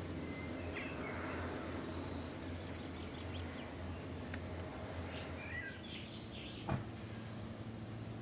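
Small birds chirping and calling in short scattered phrases, including a quick run of high chirps about four seconds in, over a steady low hum. A single short knock about seven seconds in is the loudest sound.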